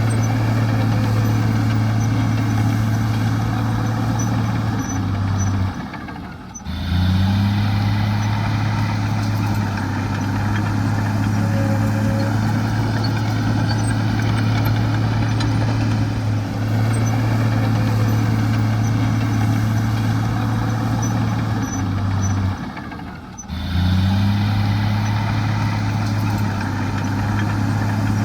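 Heavy diesel engine of earthmoving machinery running steadily with a deep hum. The sound drops away briefly twice, about six seconds in and again a few seconds before the end, and comes back with a short rise in pitch each time.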